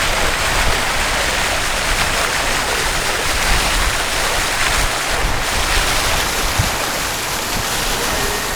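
Steady rushing noise with an uneven low rumble, like wind blowing across the microphone of a handheld camera.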